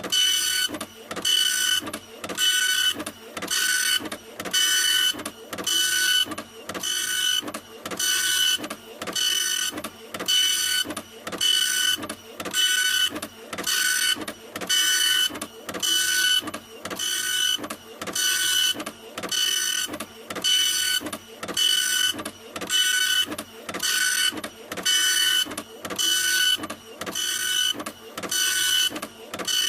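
Printer running in a steady repeating rhythm, a little faster than one stroke a second, each stroke carrying a high whine.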